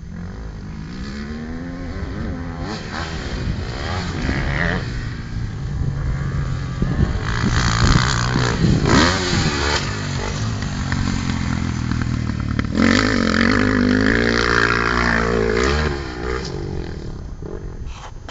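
KTM 250 SX-F four-stroke motocross bike engine revving hard and easing off again and again as it is ridden. It is loudest from about a third of the way in until near the end, then falls away.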